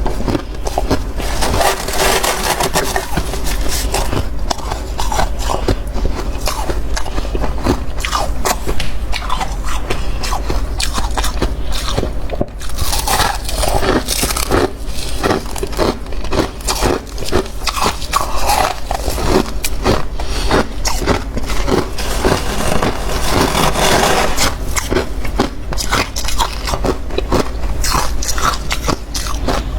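Close-miked biting and chewing of soft, powdery freezer frost: dense, rapid crunching and crackling, with a brief break about twelve seconds in.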